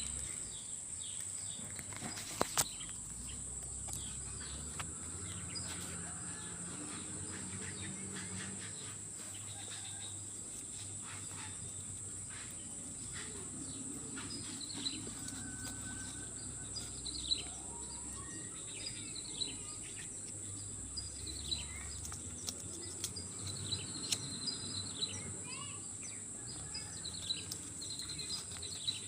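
Swamp ambience: a steady high-pitched insect drone of crickets, with scattered short bird chirps and a few sharp clicks.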